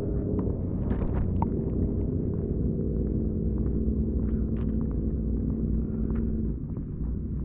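Honda Rebel 300's single-cylinder engine running at a steady speed, with a few light clicks over it; the sound eases off slightly near the end.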